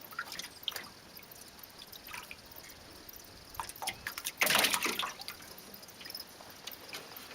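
Water dripping and splashing in small ticks, with one louder splash about four and a half seconds in.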